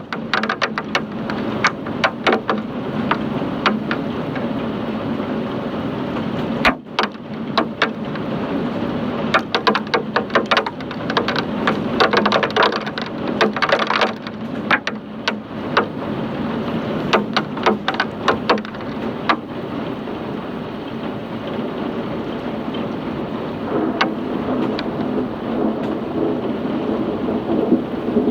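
Hailstorm: a steady rush of heavy rain and hail with many sharp clicks of individual hailstones striking hard surfaces, coming thickest in the middle and thinning out in the last third.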